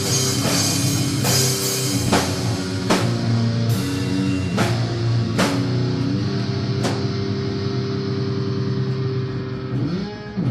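Slow, heavy doom-metal jam: distorted guitar chords over drums with cymbal crashes about once a second. The drum hits stop about two-thirds of the way through, leaving held chords ringing. Near the end a note bends upward.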